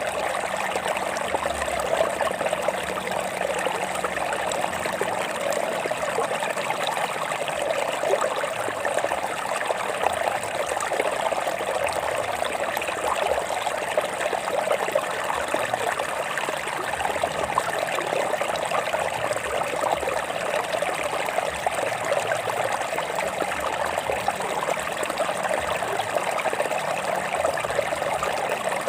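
Stream water flowing and trickling, a steady sound with no pauses.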